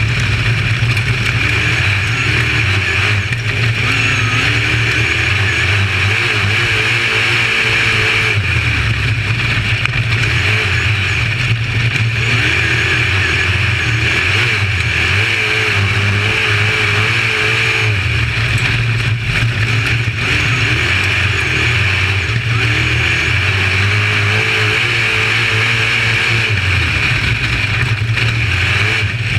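Dirt-track modified race car engine running hard at speed, its pitch rising on the throttle, holding, then dropping off, over and over as it laps.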